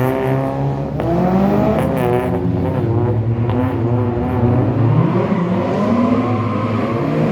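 Rally car engine revving hard, its pitch climbing and falling repeatedly with throttle and gear changes.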